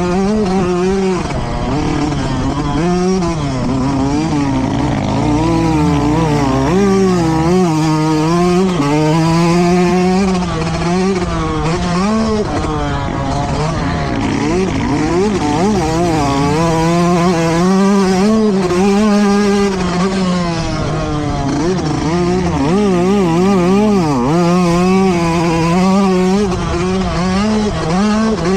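Motocross dirt bike engines racing, revving up and falling back in pitch again and again as the riders throttle on and off, with more than one bike heard at once in places.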